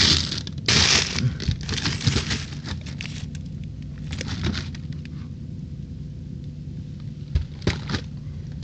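Plastic bags of frozen vegetables and berries crinkling and rustling as they are shifted around in a freezer, heaviest in the first few seconds, with a few knocks of packages later on.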